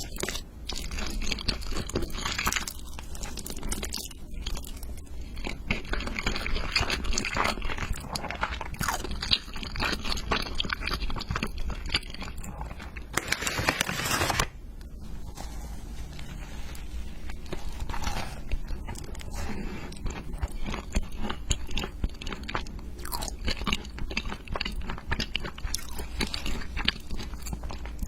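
Close-up crunching and chewing of crisp food, with repeated bites and crackles and a longer, denser run of crunching about halfway through.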